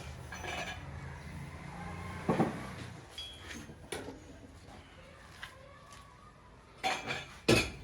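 Workshop sounds: a low machine hum that stops about three seconds in, and scattered sharp metal knocks and clanks, the loudest pair near the end.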